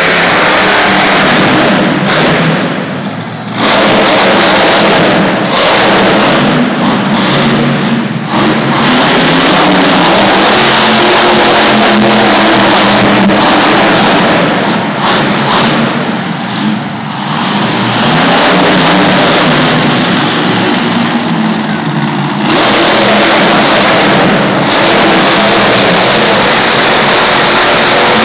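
Monster truck engine revving hard and very loud through a freestyle run, the throttle easing off briefly several times and coming straight back on.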